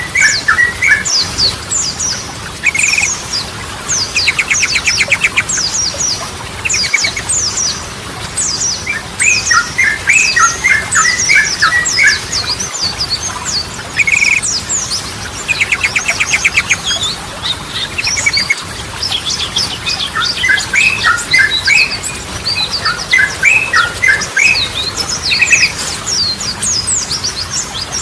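Yellow-vented bulbul song: bubbly, chattering phrases repeated every few seconds, with short rapid trills between them. A steady stream of thin, high chirps runs under the phrases.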